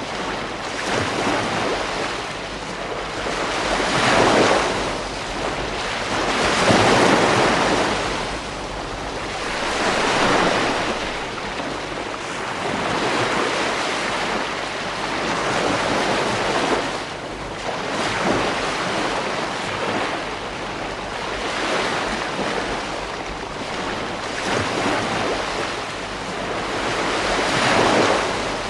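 Ocean surf breaking on a beach, with waves surging and washing back every few seconds in uneven swells. The louder breakers come about 4, 7, 10 and 28 seconds in.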